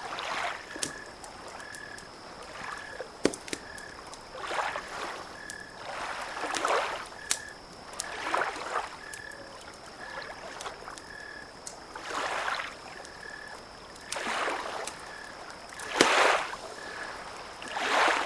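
Small waves lapping at the shore in repeated swells every couple of seconds, with sharp crackles and pops from a campfire. Behind them a short high call, frog or insect-like, repeats about twice a second, over a faint steady high whine.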